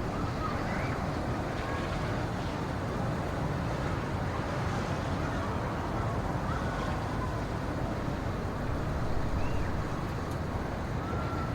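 Steady wind ambience with a deep, even low rumble. A few faint, short whistled chirps are scattered through it.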